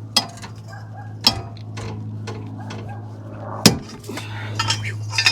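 Steel hand tools clinking and knocking against metal while working on a car's strut bolts: a few sharp clinks and one loud clank about two thirds of the way in, over a steady low hum.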